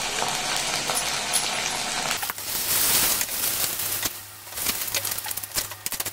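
Onions, chilli powder and sauces sizzling in hot oil in a kadai while being stirred. Louder stirring noise partway through, then a run of sharp metal scrapes and clinks of the utensil against the pan near the end.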